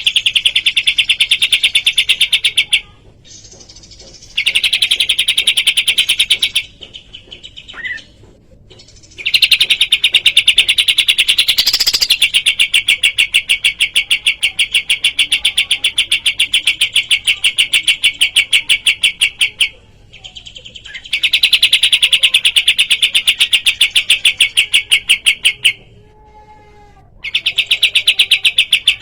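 Kapas tembak song used as a masteran recording: long runs of fast, evenly repeated high chirps, broken by a few brief pauses of a second or two.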